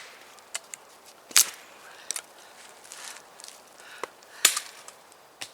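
Heavy chopper (machete-type blade) chopping wood: two heavy strokes about three seconds apart, with lighter knocks and snaps of wood in between.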